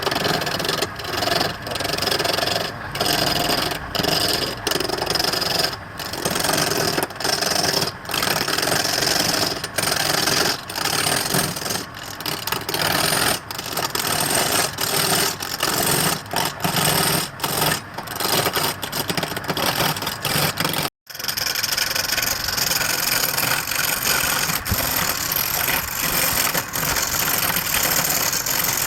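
A wood lathe running while a turning chisel cuts into spinning root wood, a loud scraping, hissing cut broken by short pauses as the tool comes off the work. It cuts out suddenly about 21 seconds in, then goes on more steadily.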